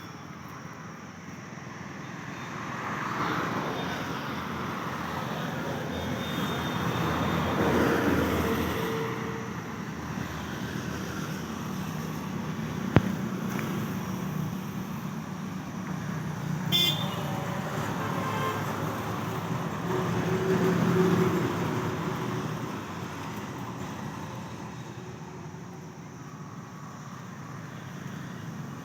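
Vehicle engines and road traffic, the noise swelling and fading several times as vehicles pass. A sharp click comes near the middle, and a short high toot about 17 seconds in.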